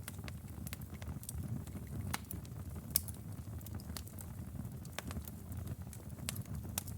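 Outdoor wood fire burning with a low steady rumble of flames and frequent irregular sharp crackles and pops, one louder pop about three seconds in.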